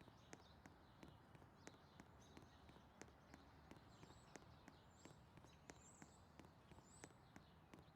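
Washing machine early in its wash cycle, heard faintly: a low steady rumble with irregular light clicks and knocks, about two or three a second, as the laundry tumbles in the drum.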